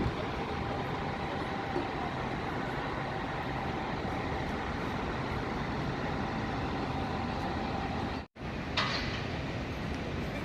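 Steady rumble of vehicle engines and traffic. It breaks off for an instant about eight seconds in and then carries on.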